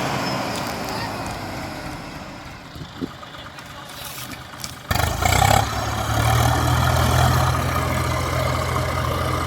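Tractor diesel engine running, then suddenly much louder about five seconds in: it revs up and is held at high revs while pulling at a stuck trolley loaded with sugarcane.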